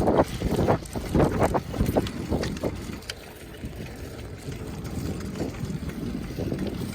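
Wind buffeting the microphone in irregular low gusts, easing to a steadier, quieter rush after about three seconds.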